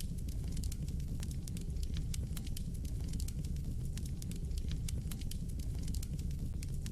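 Fire burning in a fireplace: a steady low rumble of flames with frequent small, irregular crackles and pops.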